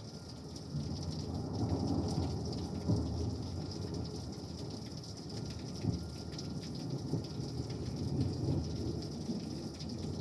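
Rolling thunder during a thunderstorm, the rumble building about a second in and swelling and fading in waves, with steady rain falling.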